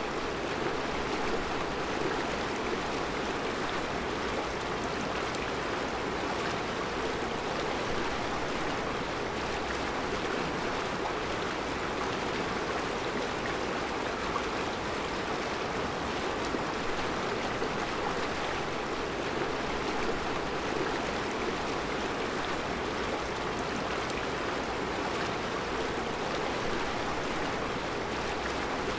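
Mountain river flowing steadily over a rocky bed of round stones, an even, unbroken rush of water.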